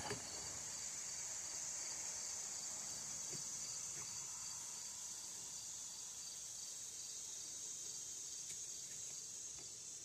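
Steady high-pitched chirring of insects, with a few faint ticks.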